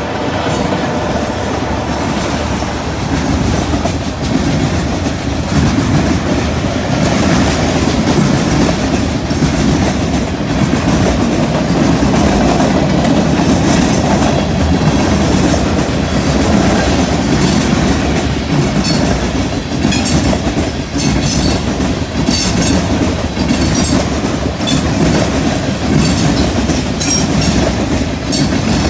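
Freight cars (tank cars, then covered hoppers) rolling past close by, the wheels clickety-clacking steadily on the rails. From about halfway through, sharp high-pitched clicks from the wheels join in.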